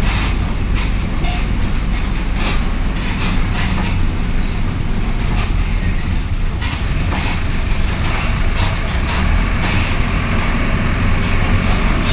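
Mercedes-Benz OF-1721 Bluetec 5 city bus under way, heard from inside: a steady diesel engine and road rumble with frequent rattles and clatters from the body.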